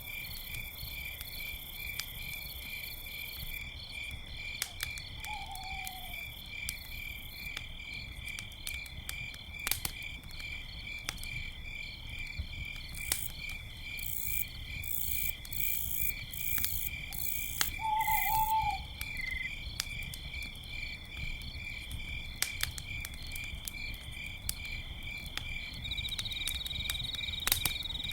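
Crickets chirping in a steady, fast pulse over a crackling campfire, with scattered sharp pops from the fire. Two short falling owl calls come about five seconds in and again near eighteen seconds.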